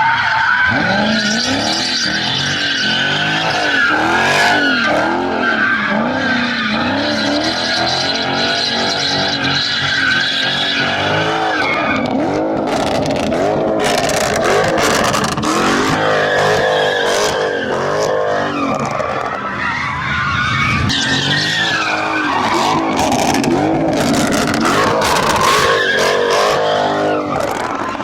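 Car tyres squealing in long steady wheelspin while the engine's pitch rises and falls over and over, as in a car doing donuts or burnouts. Many sharp cracks come in the second half.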